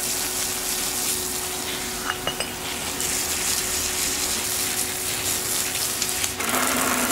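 Muriatic acid fizzing steadily on galvanized steel as it dissolves the zinc coating, with a few small clicks a little after two seconds in. A low hum joins near the end.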